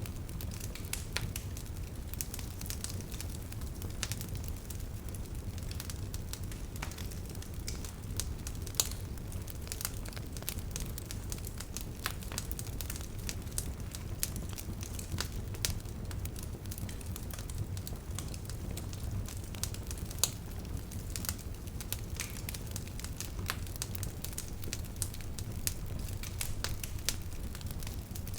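Wood bonfire crackling: many irregular sharp pops and snaps over a steady low rumble.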